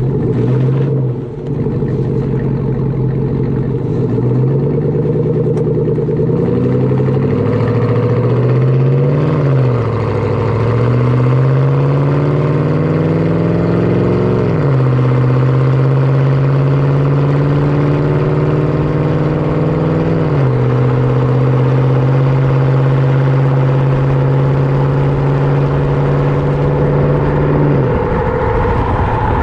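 A 2014 GMC Sierra's 5.3-litre L83 V8 running through a Corsa Sport cat-back exhaust as the truck accelerates through the gears. The pitch climbs and drops back at each of several upshifts, holds a steady note at cruise, and falls off near the end as the throttle eases.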